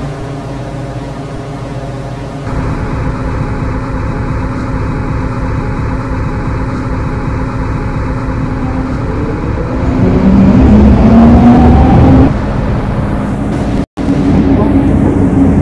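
MTR M-Train electric multiple unit running, with steady hums and then, about two-thirds of the way through, a rising whine from its traction equipment as the train picks up speed. The sound drops out for an instant near the end.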